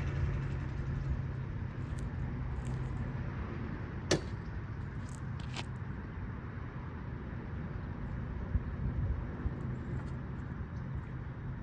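A road car's engine and tyres fading away, leaving a low steady rumble, with two sharp clicks: one about four seconds in, another about a second and a half later.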